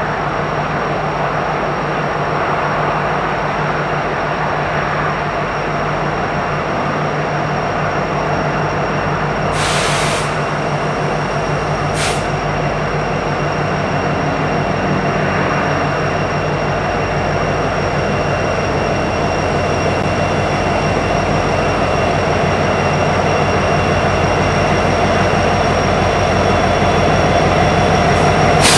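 A train running steadily, a continuous rumble with a constant low hum, broken by two brief high hisses about ten and twelve seconds in.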